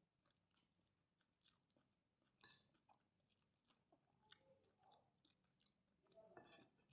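Faint chewing of fried rice with krupuk crackers, with scattered small crunches, the sharpest about two and a half seconds in.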